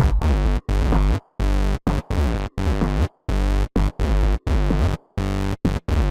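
Electro house music in progress, 130 bpm: chopped synthesizer and bass samples with a heavy low end, played in short blocks that start and stop abruptly, with hard-cut gaps of silence between them in a stuttering rhythm.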